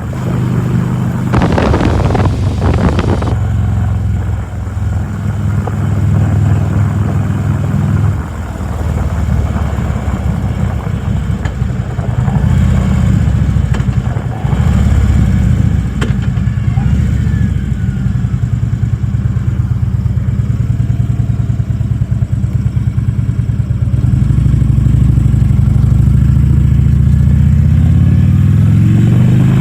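Harley-Davidson Electra Glide's V-twin engine running under way on the road, with a brief rush of noise about two seconds in. Near the end the engine pitch climbs as the bike accelerates.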